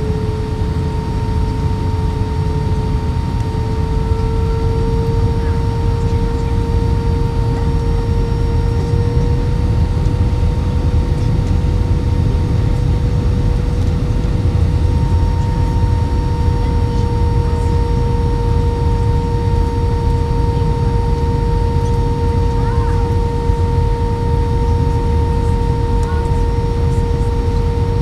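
Airbus A320's IAE V2500 jet engines running at low power, heard inside the cabin over the wing: a steady whine over a broad rumble, the whine rising slightly in pitch over the first several seconds.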